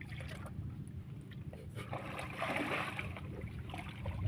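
Water trickling and sloshing, with a brief louder splash about two and a half seconds in, over a steady low rumble.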